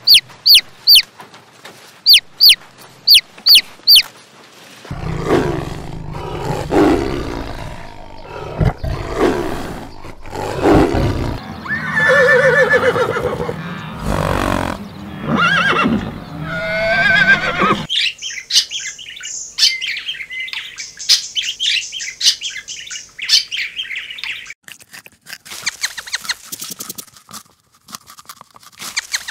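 Baby chicks peeping in short, sharp, repeated cheeps, then louder animal calls over a low rumble. These are followed by high bird twittering, and near the end rapid crisp clicks of a rabbit chewing a lettuce leaf.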